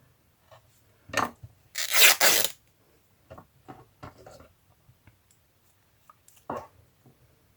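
Fabric and paper being handled and worked on a craft table: a series of short rasping, rubbing scrapes, the loudest a close pair about two seconds in.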